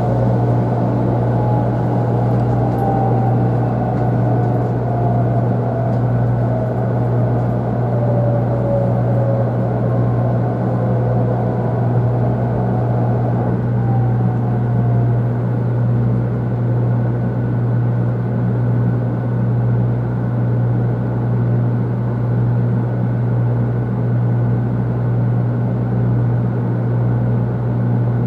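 Shinkansen 500 series train running at speed, heard from inside the passenger cabin: a steady rumble with a strong low hum. Faint whines slide slowly down in pitch during the first half.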